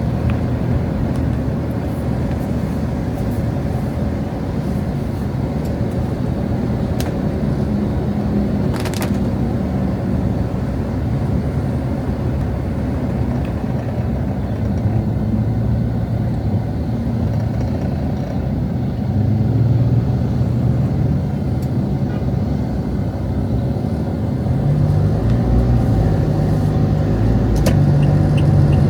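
Road traffic: vehicle engines running and passing on a street, with a steady low hum that swells louder near the end, and a few brief clicks.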